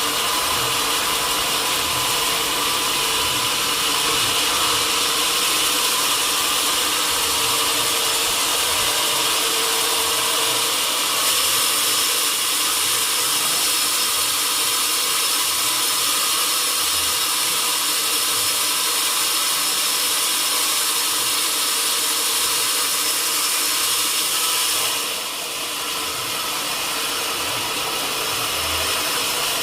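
Sawmill saw cutting mahogany wood: steady, loud machine noise that drops slightly in level about 25 seconds in.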